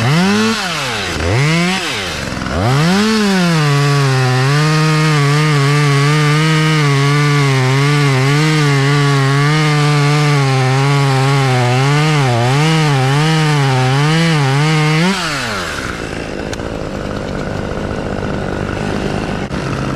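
Chainsaw blipped up twice, then held near full throttle for about twelve seconds while cutting into white oak wood. Its pitch wavers as the chain loads in the cut, and it drops off about fifteen seconds in.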